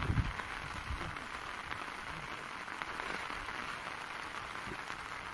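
Steady heavy rain falling on flooded fields and standing water, an even hiss, with a few low thumps right at the start.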